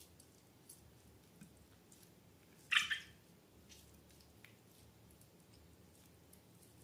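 Faint sticky clicks and squelches of slime being handled, with one short, louder squelch just under three seconds in.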